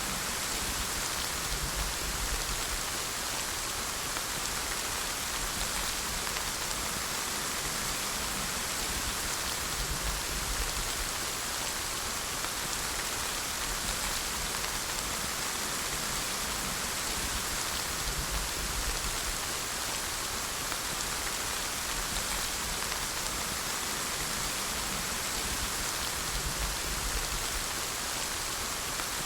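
Steady rainfall, an even hiss of drops on a surface with no change in intensity.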